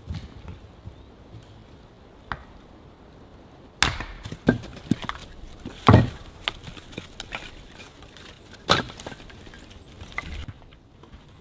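Firewood being chopped and split: irregular sharp strikes with splintering crackle between them, the loudest about six seconds in.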